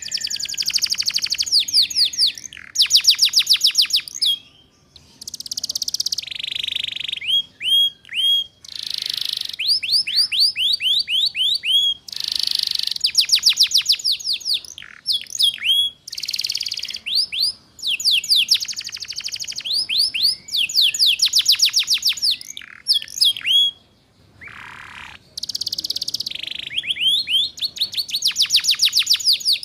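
Domestic canary singing: phrases of rapid trills, each a fast run of high sweeping notes, broken by brief pauses, in the chattering 'ngeriwik' style.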